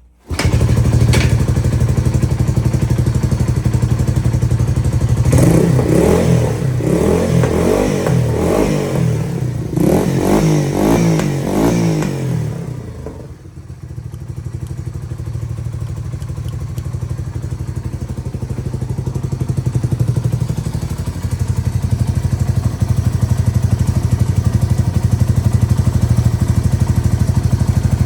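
Yamaha TW200's single-cylinder four-stroke engine firing up and running. About five seconds in, it is revved in a series of throttle blips for several seconds, then drops back and settles into a steady idle.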